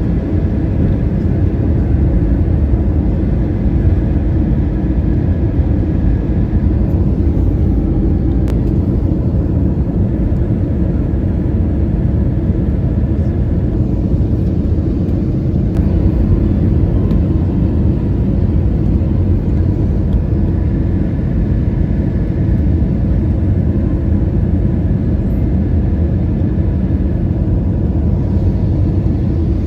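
Steady, even rumble of an airliner cabin: jet engine and airflow noise heard from inside the plane.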